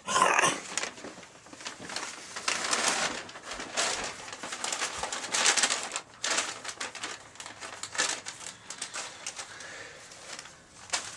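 Paper bag puppets rustling and crinkling in uneven bursts as they are worked by hand.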